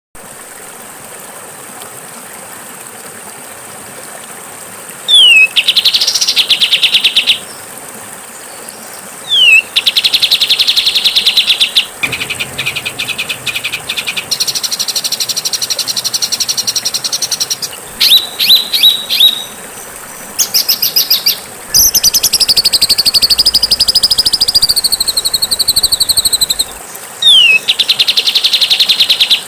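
Songbird training recording of harsh, buzzy song phrases. A sharp downward whistle followed by about two seconds of rapid rasping buzz comes several times, with a stuttering chatter of quick notes and a long, wavering buzzy trill in between, over a steady background hiss.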